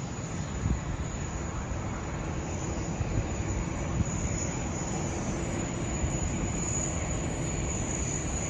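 Jet airliner engines running, a steady rumble with a thin high whine above it.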